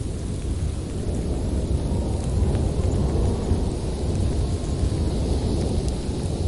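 Thunderstorm: a steady low rumble of thunder under rain, swelling a little about two seconds in.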